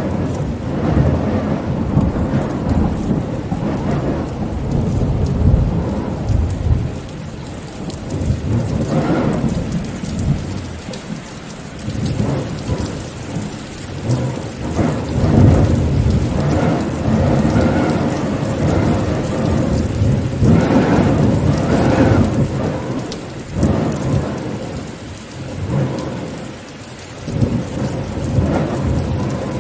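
Rain falling steadily under long low rolls of thunder that swell and fade, loudest about halfway through and again a little later, easing off for a moment near the end.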